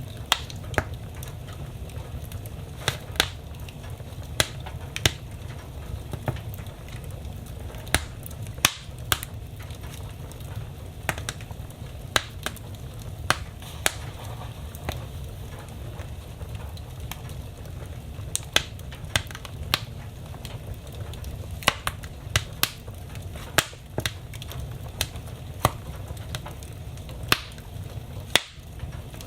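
Wood fire burning in a fireplace, crackling with sharp irregular pops over a steady low rumble of the flames.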